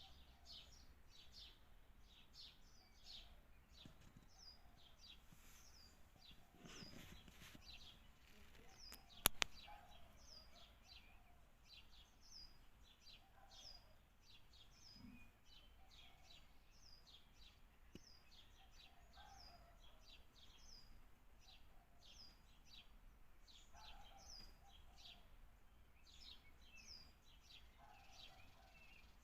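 Small birds chirping steadily, many short high chirps over and over. A single sharp click about nine seconds in.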